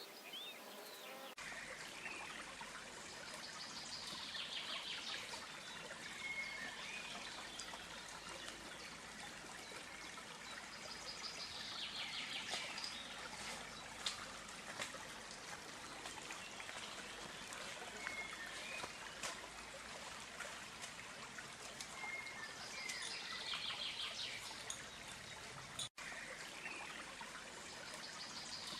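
A small stream trickling steadily, with a songbird repeating a short trilled phrase every several seconds and occasional single chirps.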